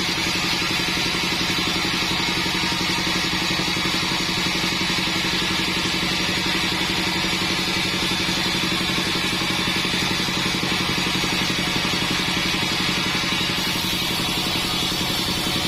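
Sawmill band saw machine running steadily: a constant engine-like hum with a high whine above it.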